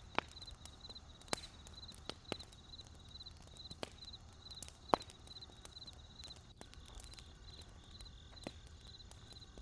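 Wood fire crackling, with irregular sharp pops of burning wood; the loudest pop comes about five seconds in. Throughout, a high-pitched chirping repeats about three times a second over a low steady rumble.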